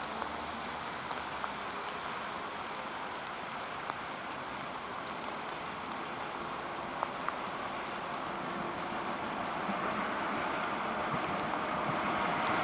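ChS4 electric locomotive hauling a passenger train, pulling away from a station and approaching: a steady hissing rumble that grows louder over the last few seconds as the train nears.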